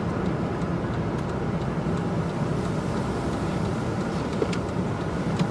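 Steady vehicle noise heard from inside the car's cabin: an even rumble with a faint low hum.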